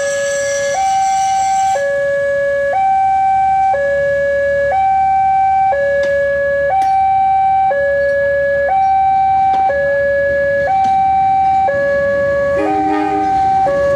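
Electronic two-tone warning alarm, switching between a high and a low tone about once a second, sounding as the Malioboro Express train approaches the station. Near the end a short, lower-pitched sound joins in briefly.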